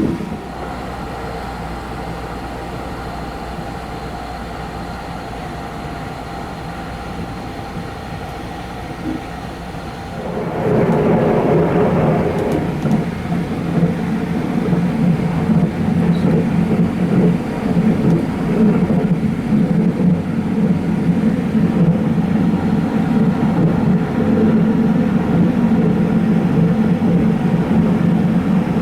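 Sunrise Izumo sleeper train (285-series electric train) running along the line, a steady rumble with a faint whine. About ten seconds in it turns suddenly louder and rougher and stays that way.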